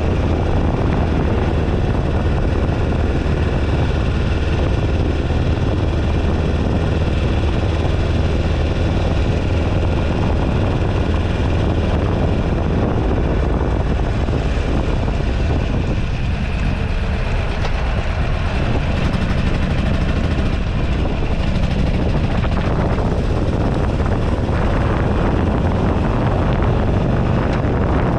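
Buell Ulysses XB12XT's V-twin engine running at road speed under heavy wind noise on the microphone.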